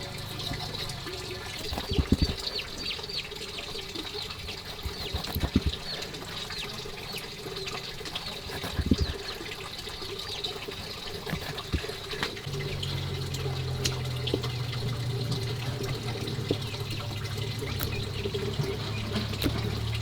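Water trickling and splashing, with a few sharp knocks in the first half and a low steady hum that comes in about halfway through.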